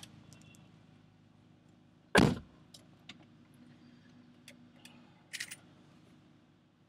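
BMW 540i's 4.4-litre V8 with a Bassani exhaust idling with a steady low hum. A single loud thump about two seconds in, and a few light clicks later on.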